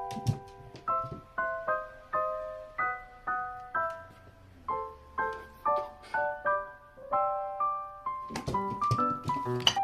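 Background piano music: a light melody of single struck notes at an even, unhurried pace. A few short, sharp clicks come near the end.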